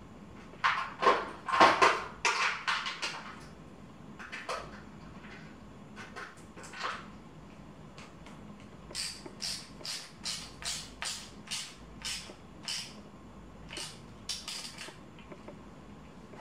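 Hand-tool and parts handling noises during bicycle assembly: a flurry of scraping knocks and clicks, then a regular series of short, sharp scraping strokes, about two a second.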